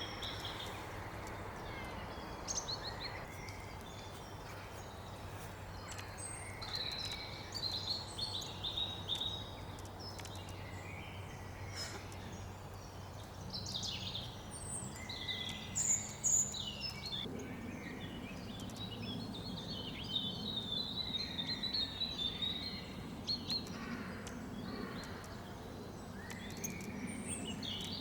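Several wild songbirds singing and calling, with short chirps and trills overlapping, over a steady low background hum.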